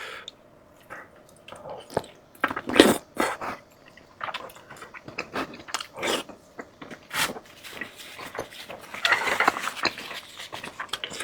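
A person eating close to the microphone: irregular biting and chewing, with wet smacking clicks and a louder bite about three seconds in, then a longer noisy stretch about nine seconds in.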